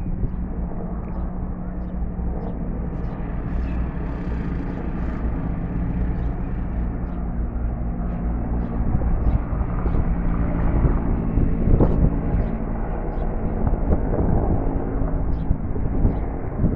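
A steady engine drone over a low rumble, with faint short ticks on top.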